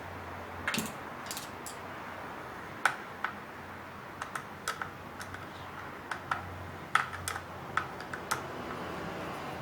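Scattered sharp light clicks and taps, about twenty in an irregular rhythm, as the plastic and metal parts of an electric heater are handled during disassembly, over a faint steady low hum.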